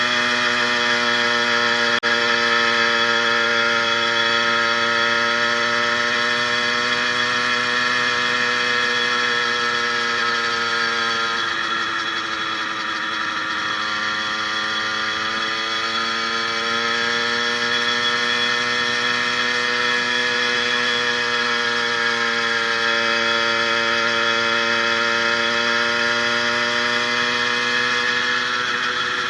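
Two-stroke 80cc motorized-bicycle kit engine running steadily, fitted with an upgraded needle-bearing wrist pin. Its pitch sinks from about eleven seconds in and climbs back a few seconds later.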